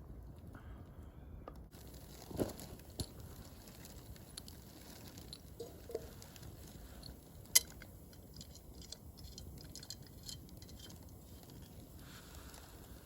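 Wood fire crackling, with scattered pops and one sharp snap about seven and a half seconds in.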